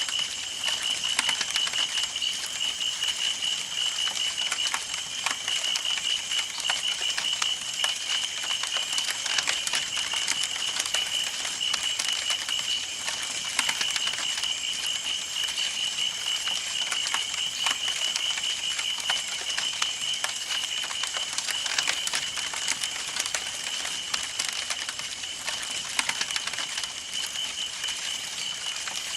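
Campfire burning: wood crackling and popping in dense, irregular clicks, over a steady high-pitched pulsing chirr.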